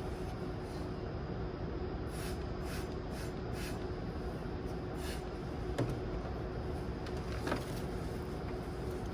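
Steady background hum with a faint constant tone, broken by a few short hisses in the first half and two sharp clicks or knocks in the second half.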